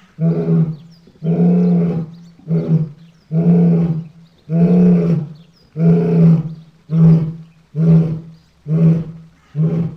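Lion roaring in a run of about ten deep calls, roughly one a second, each growing shorter toward the end: the grunting close of a roaring bout.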